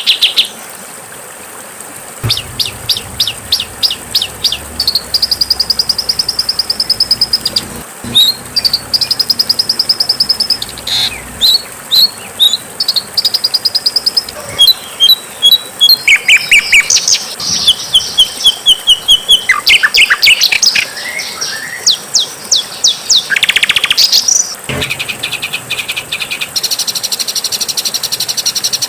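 Songbird song edited into a training compilation: strings of rapid, repeated chirps, short harsh trills and whistled phrases from several passages. It breaks off about half a second in, resumes about two seconds later, and jumps abruptly to new phrases in places, especially about 25 seconds in.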